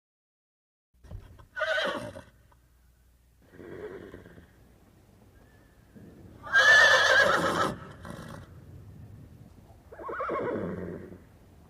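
A horse neighing: four separate calls starting about a second in, the loudest and longest a wavering whinny about halfway through, the last one falling in pitch.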